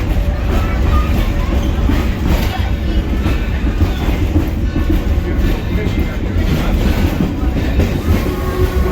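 Train pulled by a steam locomotive running along the track, heard from aboard: a steady low rumble with wheels clacking over the rails.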